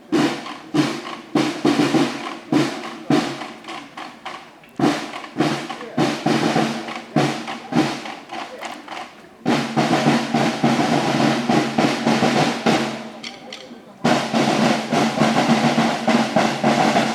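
Drums playing: separate beats, then from about halfway two long drum rolls with a short break between them.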